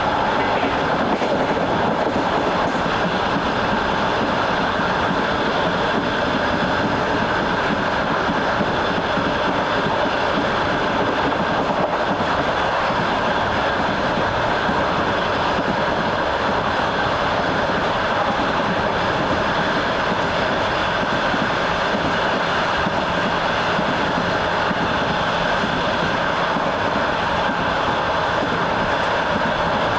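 Train running steadily along the track, heard from aboard: continuous rolling noise with the clatter of wheels over the rails.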